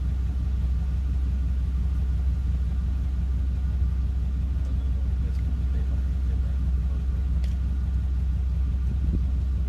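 Chevy pickup truck engine idling steadily, a low, even rumble.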